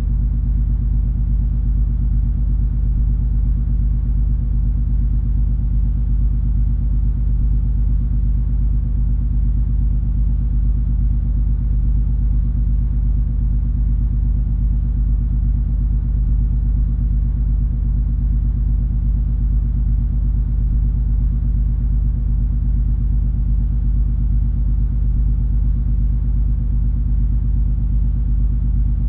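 MS Color Magic's engines and hull under way: a steady low shipboard rumble with a few constant hums and no change in pace.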